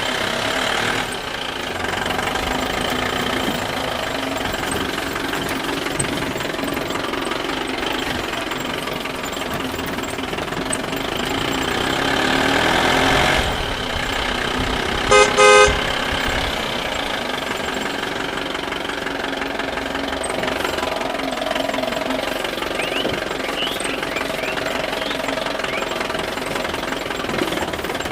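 Heavy vehicle's engine running steadily. About fifteen seconds in, a horn sounds two short toots.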